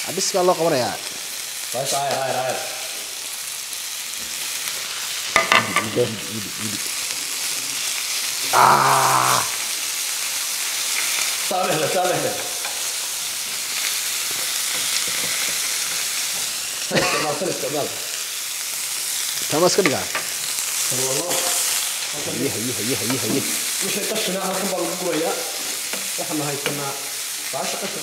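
Food frying in hot oil in a frying pan on a gas burner, giving a steady sizzling hiss while it is stirred with a spatula.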